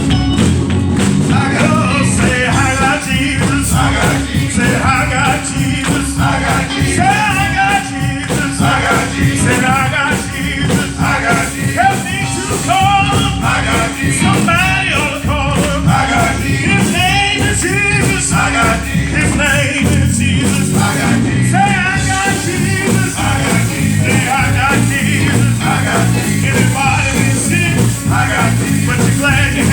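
Live gospel praise-and-worship music: a band playing with a steady beat while voices sing.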